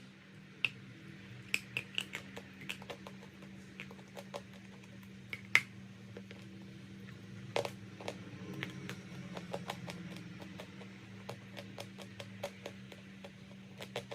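Crunchy chalk or clay giving sharp, irregular crunching clicks, several loud cracks among many small ones, over a steady low hum.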